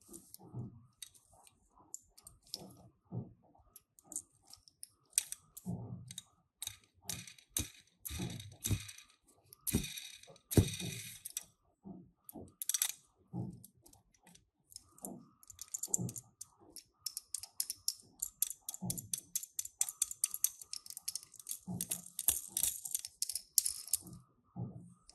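Die-cast toy minicars and their packaging being handled: irregular small clicks and taps, with a long stretch of dense crackling rustle in the second half.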